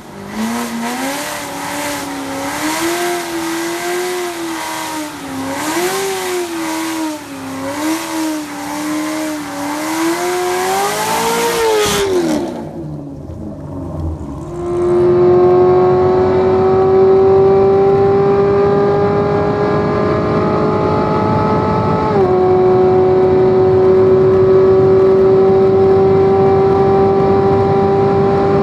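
C7 Corvette V8 revving up and down during a burnout, with a loud hiss. It then gives way to the engine running flat out in seventh gear at about 6,000 rpm above 200 mph: a steady, loud drone whose pitch climbs slowly, with a brief drop about two-thirds of the way through.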